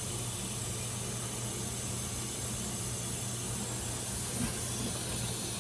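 Tap water running steadily into a metal cooking pot to fill it for boiling pasta: an even, unbroken hiss.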